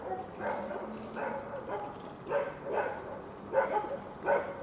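Dogs barking repeatedly in short bursts.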